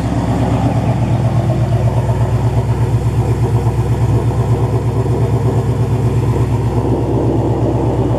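2015 Ford Mustang GT's 5.0 L Coyote V8 idling through Stainless Works headers and exhaust, a loud, steady exhaust note with an even pulse.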